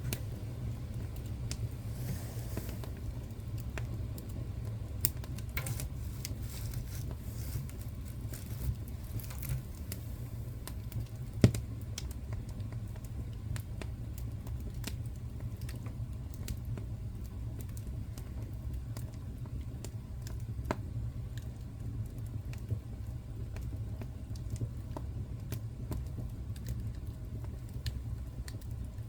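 Fire crackling in a fireplace: scattered small crackles and pops over a steady low rumble, with one sharp, louder pop about eleven seconds in.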